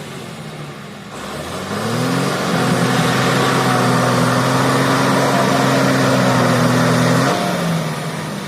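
A heavy vehicle's engine revs up about two seconds in, holds steady at high revs for about five seconds, then drops back toward idle near the end.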